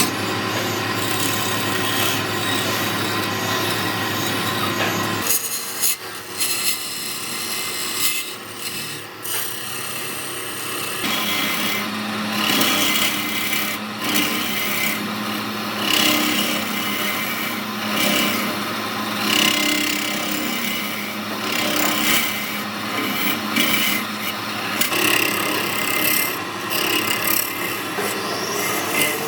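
Wood lathe running while material is scraped off a spinning wood-and-epoxy resin blank. The machine's hum changes about five seconds in, and later the scraping swells and fades about every two seconds.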